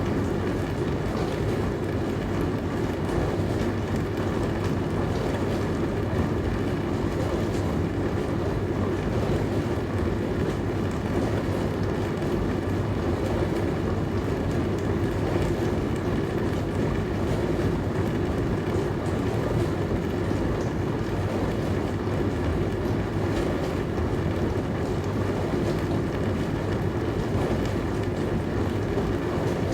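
Dishwasher running: a steady hum with an even rushing wash of water that does not change.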